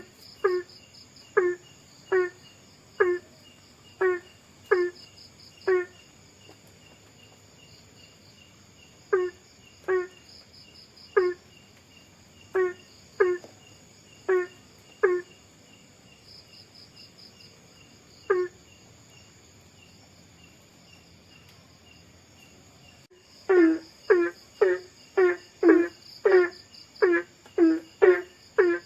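Night-forest chorus of crickets trilling steadily in a high pulsing drone, overlaid by an animal's short, loud pitched call repeated about once a second in bouts, with a pause in the middle and a faster run near the end.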